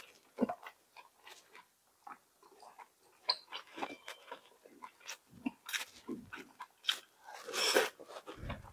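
Close-miked mouth sounds of a person eating: chewing with irregular small clicks and crunches, and one longer, louder crunch near the end.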